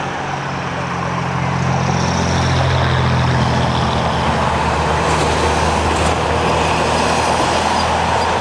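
Heavy diesel vehicle, such as a truck or bus, driving past close by, its low engine note swelling about two to three seconds in and staying loud.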